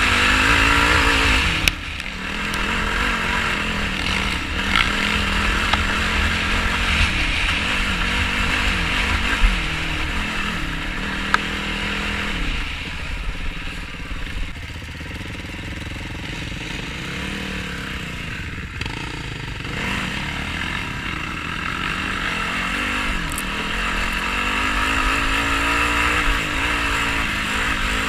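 Yamaha YFZ450R sport quad's single-cylinder four-stroke engine revving up and down repeatedly while riding off-road, with a few sharp knocks along the way.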